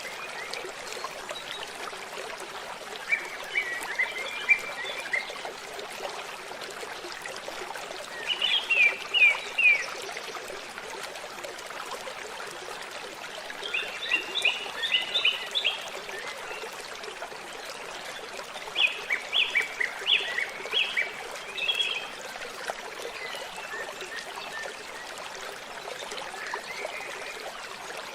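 Steady rush of a waterfall, with a songbird singing short phrases of quick, high notes every few seconds, about five times.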